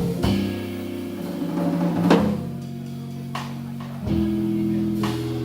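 A live band playing music: held piano chords change about every two seconds over a drum kit with snare and cymbal hits.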